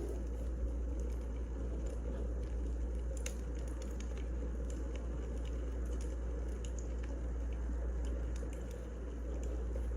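Wood fire burning, a steady low rumble with small crackles and pops scattered irregularly through it.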